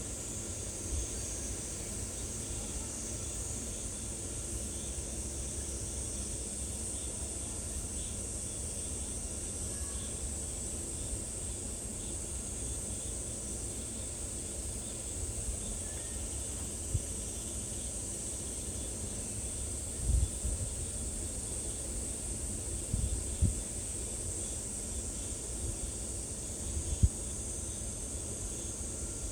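Steady high-pitched insect chorus that holds one even tone throughout. A low rumble of wind on the microphone sits underneath, with a few soft thumps in the second half.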